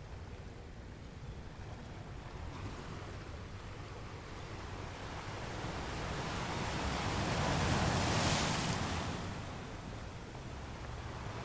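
Ocean waves: one wave surges in, building to a peak about eight seconds in and then washing back, over a steady low rumble of the sea.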